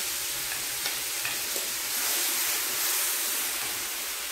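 Ground shallot, tomato and chili paste sizzling steadily in a hot frying pan, with a spoon stirring it and a few light clicks of the spoon against the pan.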